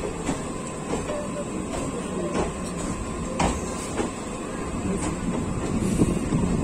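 Electric local trains (EMUs) rolling slowly side by side, their wheels knocking irregularly over rail joints and points, about once a second, over a steady rumble and a faint steady whine.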